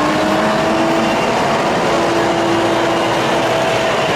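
Engine running at a steady speed, its pitch edging up a little in the first second and then holding.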